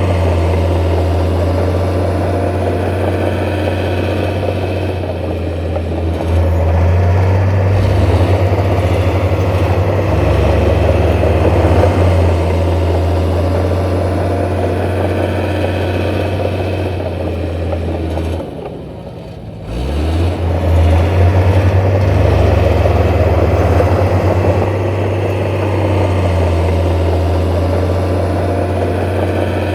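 Heavy diesel construction machinery running steadily, its engine note shifting a few times as it works, with a brief drop in level about two-thirds of the way through.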